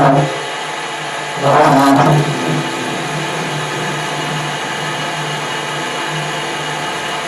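Metal lathe running steadily, with two louder bursts of cutting noise: one right at the start and one about one and a half to two seconds in.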